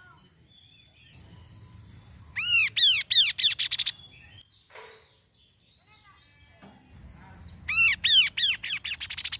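Kaso-kaso bird singing: two bursts of quickly repeated, arching whistled notes that come faster toward the end of each burst, the second starting near the end.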